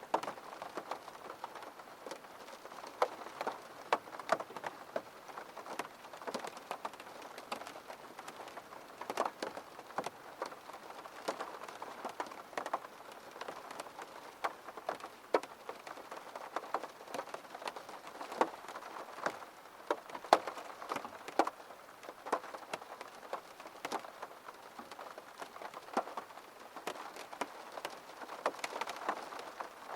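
Rain falling against a window pane: a steady hiss with many irregular, sharp taps of single drops striking the glass.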